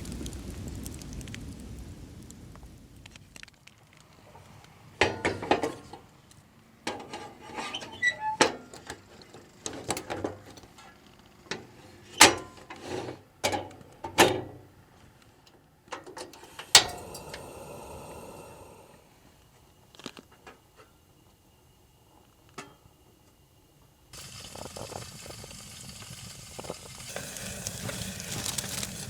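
Cooking sounds: a run of clinks and knocks of utensils against pans and dishes, then food sizzling in a pan from about four-fifths of the way in.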